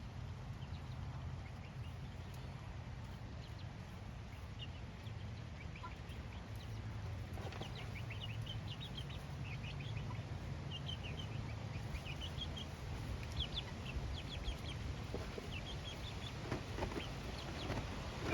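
Chickens clucking and giving short, high calls, which become frequent from about halfway through, over a steady low rumble.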